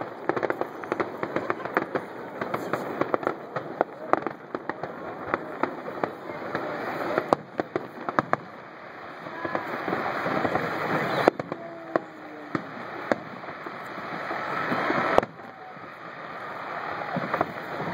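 Fireworks display going off: a rapid run of crackling bangs for the first few seconds, then scattered bangs and pops, with a few single sharp bangs standing out later.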